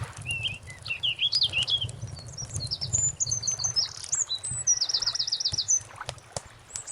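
A songbird singing: a quick warbling phrase near the start, then higher whistled notes, and a fast trill of about ten repeated notes about five seconds in. The song sits over a steady low rumble with scattered soft ticks.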